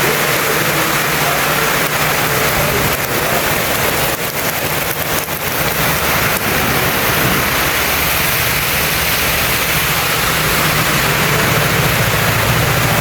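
Heavy rain pouring down, a loud, steady hiss with no break.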